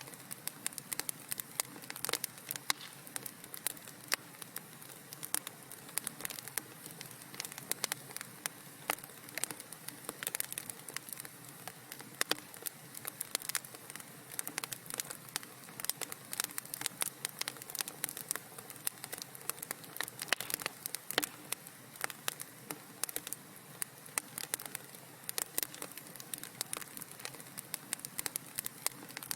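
Wood fire crackling in a fireplace: dense, irregular snaps and pops over a soft steady hiss.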